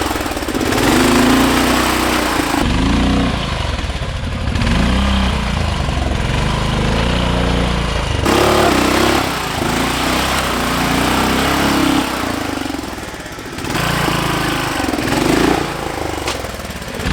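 Modified off-road lawn tractor engine revving hard, its pitch rising and falling again and again as it pulls through a mud hole. The sound shifts abruptly a few times.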